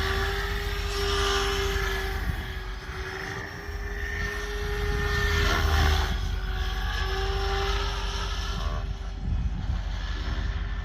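SAB Goblin electric RC helicopter with a three-blade main rotor in flight: a steady motor-and-rotor whine that wavers slightly in pitch, over a low rotor thrum, swelling louder around the middle.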